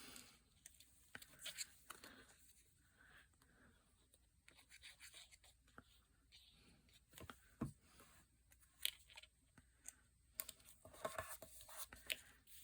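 Faint, intermittent rustling and rubbing of paper being handled, with a few light taps scattered through.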